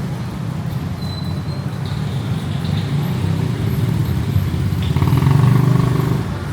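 Street traffic: vehicle engines running steadily, with one vehicle's engine passing close and loudest about five seconds in.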